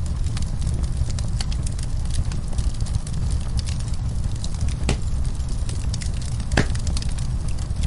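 Fireplace fire crackling steadily, with many small snaps over a low rumble and two louder pops about five and six and a half seconds in.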